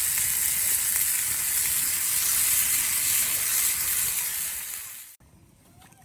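Food sizzling hard in a cast-iron skillet over a campfire, a dense steady hiss that dies away about five seconds in.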